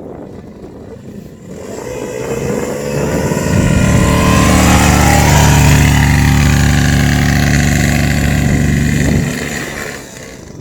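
Quad bike engine drawing near, running loud close by for about five seconds, then dropping away quickly near the end.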